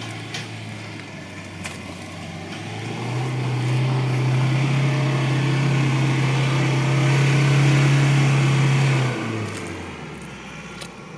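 Car engine under heavy throttle as the car tries to climb out of deep mud: it revs up about three seconds in, holds high for about six seconds, then drops back.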